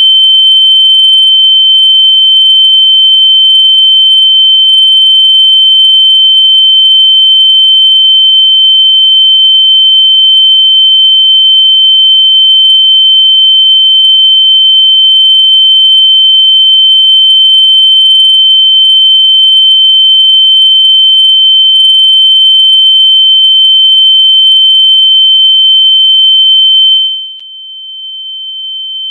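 A loud, steady, high-pitched electronic tone held on a single pitch. About 27 seconds in it drops sharply in level, then slowly swells back.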